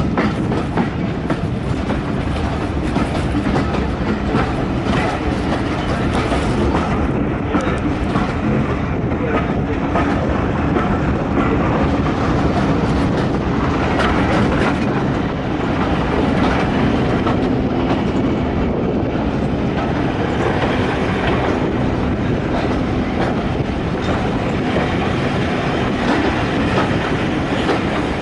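Railway carriage running along the track: a steady rumble of wheels on rail with a rapid clickety-clack of clicks over the rail joints.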